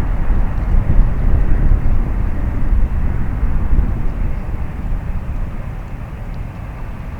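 Jet airliner's engines heard from the airport perimeter: a steady rushing noise with a strong low rumble, easing off gradually over the last few seconds.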